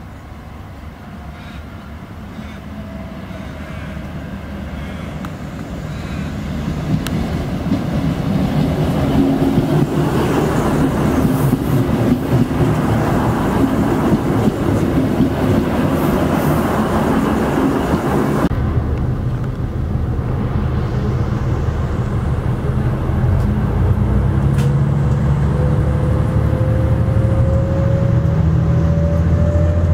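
V/Line VLocity diesel multiple unit approaching along the platform, its wheels and engines steadily growing louder into a heavy rolling rush. In the second half its diesel engines speed up with a low drone and a steadily rising whine.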